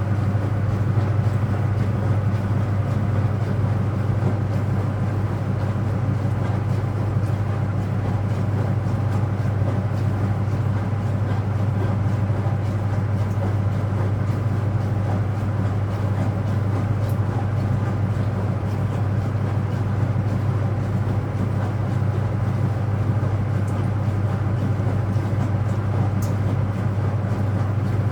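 Speed Queen top-loading washer in its final spin, running as a steady machine hum with a strong low drone and no let-up.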